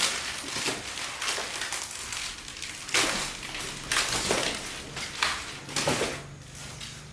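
Irregular knocks, scrapes and rustling of objects being handled, over a faint low hum.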